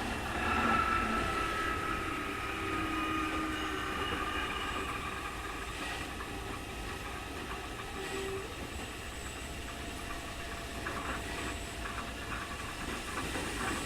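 Running sound inside a Keikyu 2000 series electric train car: traction-motor and gear whine at several pitches, sagging slightly and fading over the first few seconds as the train slows. A steadier rumble and hiss follows, with a few light clicks near the end.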